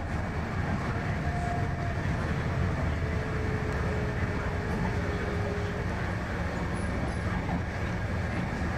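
Steady low rumble of an MTR East Rail Line Hyundai Rotem R-train, heard from inside the passenger car while the train runs. A faint steady hum sits above the rumble for a few seconds in the middle.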